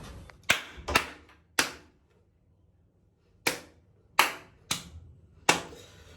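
Seven sharp clicks or snaps: three in the first two seconds, then a pause of about two seconds, then four more. Each is sudden and dies away quickly.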